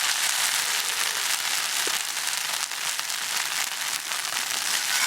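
Monjayaki sizzling on a hot iron griddle plate: a steady hiss with many fine crackles, the batter crisping into a crust.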